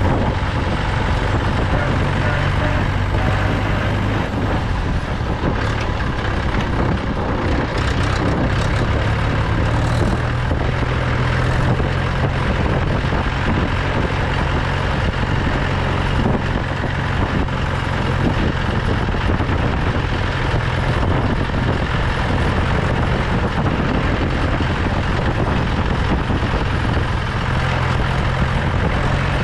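Mahindra 475 DI tractor's four-cylinder diesel engine running steadily while driving, its note stepping up slightly about four seconds in.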